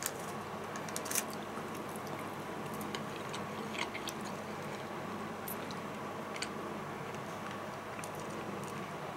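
Faint chewing and a few soft, scattered clicks from handling fried chicken and fries on a paper wrapper, over a steady faint room hum.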